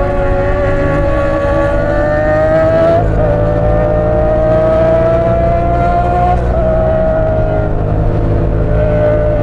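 Parallel-twin motorcycle engine pulling under steady acceleration while riding. Its pitch climbs slowly and drops sharply at two upshifts, about three seconds and six and a half seconds in, then holds nearly steady.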